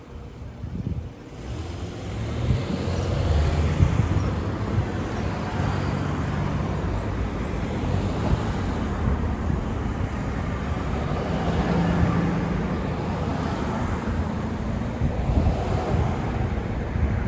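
Road traffic passing close by, a low engine drone under tyre and road noise. It swells about two seconds in and then holds steady.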